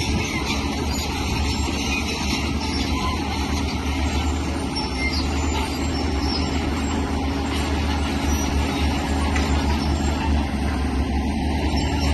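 Diesel engine of heavy earthmoving machinery, a bulldozer or excavator, running steadily with a deep low rumble.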